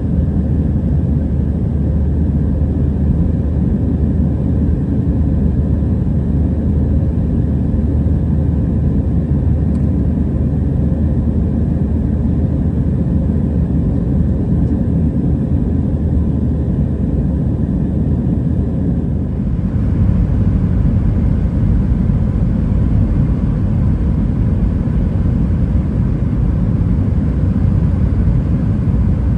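Cabin noise of an Airbus A320-212 jetliner: a steady low rumble of engines and airflow with a fainter hiss above it. About two-thirds of the way through, the hiss fades and the rumble shifts slightly.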